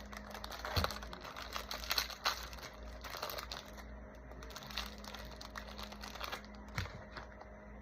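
Plastic Twinkie wrapper crinkling as it is handled, a run of small crackles that is busiest in the first few seconds and thins out, with one sharper click near the end.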